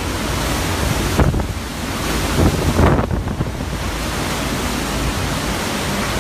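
Hurricane Irma's winds blowing hard and buffeting the microphone, a steady roar with two stronger gusts, one about a second in and a longer one around the middle.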